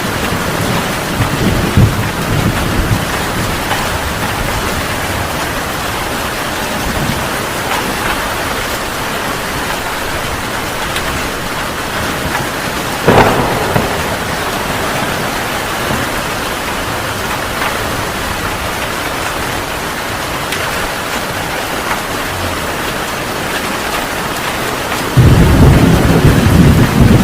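Heavy rain falling steadily. A sharp crack of thunder comes about halfway through, and a loud, low rumble of thunder begins near the end.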